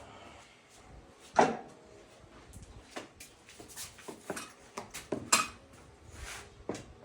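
A string of sharp knocks and clicks from hard objects being handled, the loudest about a second and a half in and another near five seconds, with short scratchy sounds between them.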